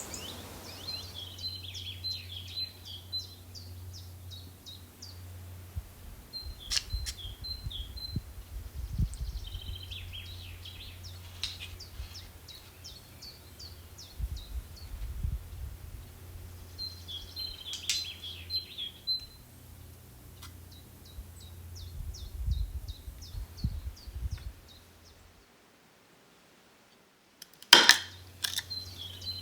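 Songbird singing: phrases of rapid, high chirps repeated every few seconds over a steady low hum. Near the end the sound drops out briefly, then a few sharp knocks.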